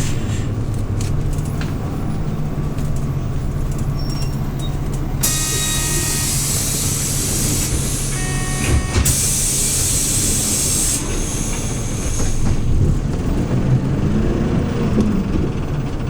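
Hyundai New Super Aero City CNG city bus running with a steady engine note. About five seconds in, a loud hiss of compressed air lasts around four seconds, followed by a second, shorter hiss from the bus's air system. Toward the end the engine note rises and wavers as the bus pulls away.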